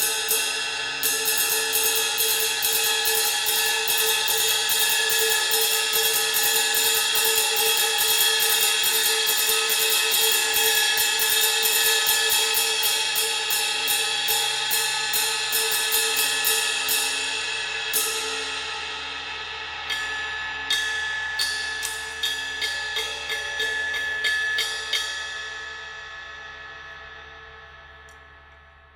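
Anatolian Ege 20-inch ride cymbal played with a stick. Rapid, steady strokes build a ringing wash for about sixteen seconds. Then comes a single strike, then a few separate strokes about two a second, and the cymbal is left to ring and fade out near the end.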